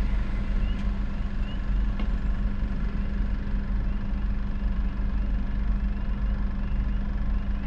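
A vehicle engine idling, a steady low rumble heard from inside a car's cabin.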